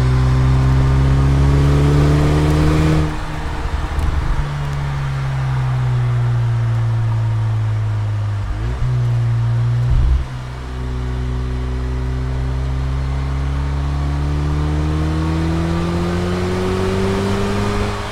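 2007 Saturn Sky Redline's turbocharged 2.0-litre four-cylinder engine under way. It climbs in pitch under acceleration for about three seconds, drops off as the throttle lifts and sinks slowly, has a brief break around nine to ten seconds in, then climbs steadily again through a long pull.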